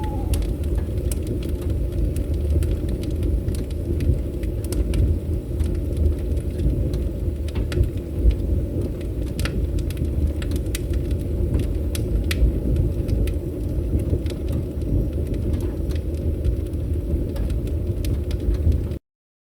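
Wood fire crackling, with scattered sharp pops over a steady low rumble. The sound cuts out completely for about a second and a half near the end.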